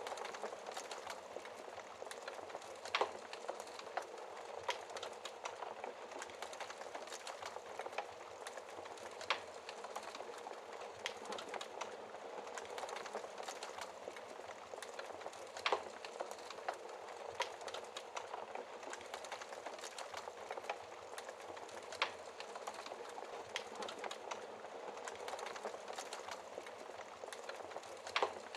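Wood fire burning in a fireplace: a steady hiss of flames with scattered sharp crackles and pops, a few louder pops standing out.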